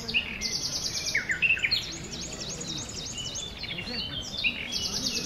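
Songbirds chirping and singing: a string of quick, downward-sweeping whistled notes, with a fast high trill near the start and again at the end.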